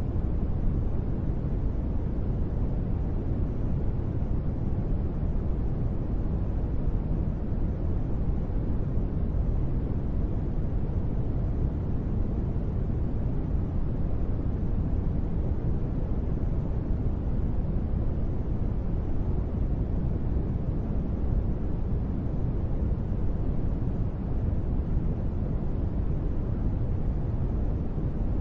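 Steady, deep rushing noise of a gentle-rain white-noise ambience, even and unbroken, with most of its weight in the low end and little hiss.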